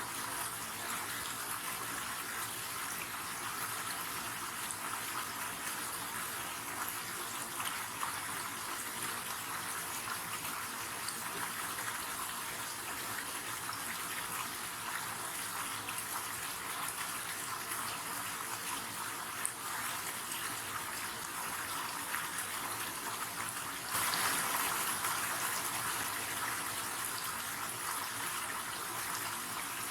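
River water flowing in a steady, even rush. The sound steps up abruptly about four-fifths of the way through and then eases slightly.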